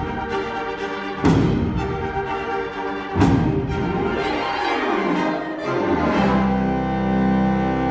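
Concert wind band with a saxophone quartet playing the closing bars of a piece: loud accented hits about one and three seconds in, a falling line, then a final chord held from about six seconds in.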